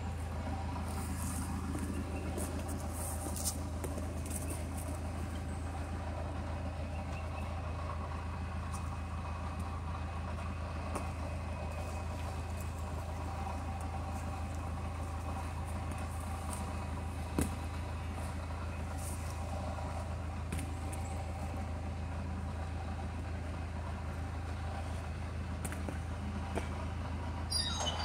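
Bobcat skid-steer loader engine running at a steady speed, with a few light knocks now and then.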